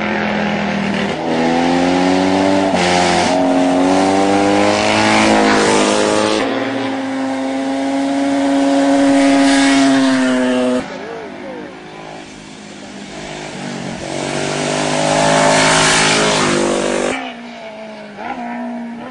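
Vintage racing motorcycles accelerating hard up a hill climb, the engine pitch climbing and dropping back several times as they shift up through the gears. A first bike's engine note holds high and then fades about eleven seconds in. A second bike rises to a loud peak and cuts off sharply about two seconds before the end.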